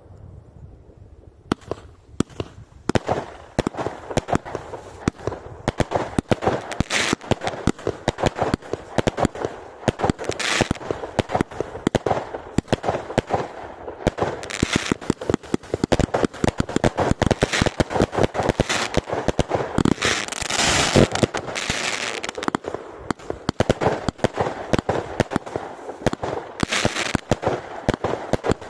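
Fireworks going off in a dense, rapid barrage of bangs and crackling, starting about a second and a half in. Several longer stretches of hissing crackle rise over the pops.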